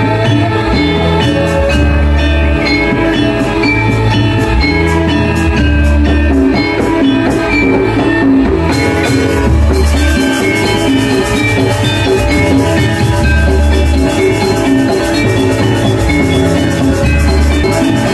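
Balinese gamelan playing: dense runs of struck metal notes over deep low strokes that recur every few seconds.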